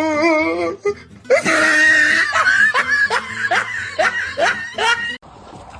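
A person laughing hard, in a run of short rising bursts about two a second, stopping shortly before the end.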